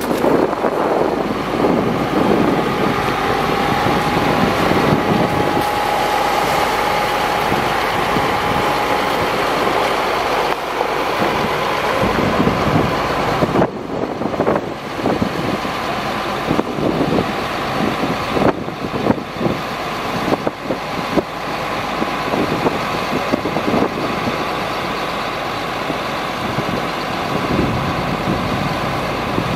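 Chevrolet C7500 ladder truck running, with a steady high whine for about the first ten seconds and scattered knocks and clunks after that.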